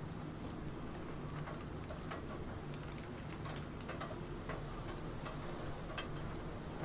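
Computer keyboard keys being pressed slowly and unevenly, separate clicks about one or two a second, the sharpest about six seconds in, over a steady hiss of rain.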